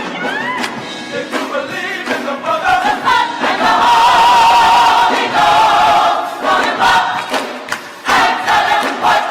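Gospel choir singing, with long held notes that break off and start again several times.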